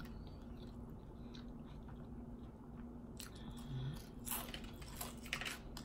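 Close-up chewing and crunching of potato chips in the mouth, soft and scattered, with louder crunches in the last two seconds.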